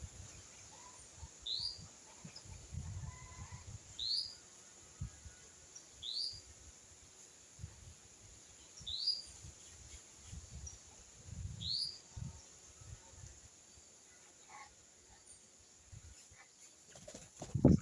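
A bird giving a short, rising, high call note five times, about every two to three seconds, over low rumbles and thumps, with a loud low knock near the end.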